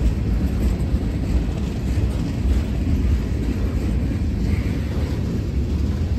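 Train going by with a steady, deep rumble.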